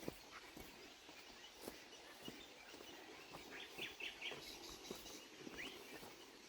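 Faint outdoor ambience with a few short, high bird chirps clustered near the middle and a single rising chirp shortly after, over scattered light ticks.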